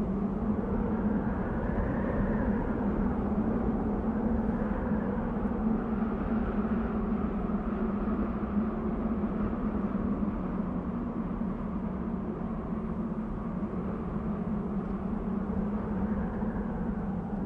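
Desert wind blowing steadily: a broad rushing noise with a steady low tone underneath, the rush swelling slowly, with one rise about two seconds in.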